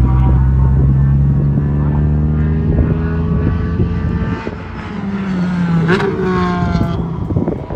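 Sports car engine running hard on a race track, its pitch climbing steadily as it accelerates, with a sharp swing in pitch about six seconds in.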